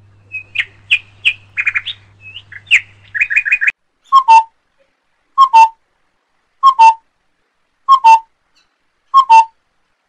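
A common myna's quick run of varied chirps and whistles, then a rainbow lorikeet's clear two-note whistled call, repeated evenly five times about a second and a quarter apart.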